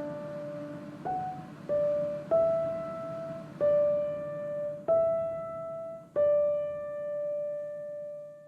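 Background music: slow solo piano, single notes struck about once a second and left to ring, the last one fading out near the end.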